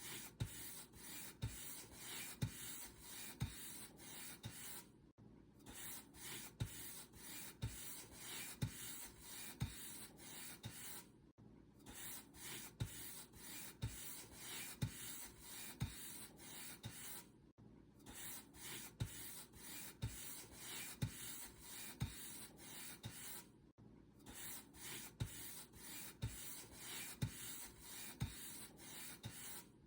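Paint brush stroking back and forth over a surface in a steady rhythm, with a stroke about every half second or so and a soft bump at each one. It breaks off briefly about every six seconds.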